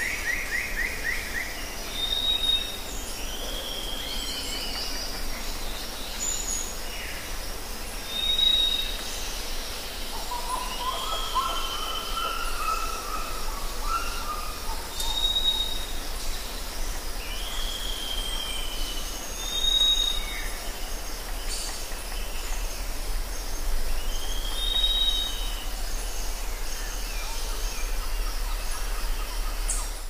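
Birds calling over a steady outdoor background hiss: a short high note followed by a falling slurred note, repeated about every five to six seconds, with a lower warbling phrase about ten seconds in.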